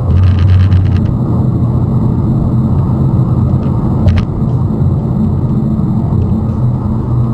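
Steady low rumble of a car driving, road and engine noise as a dash cam picks it up, with a short sharp click about four seconds in.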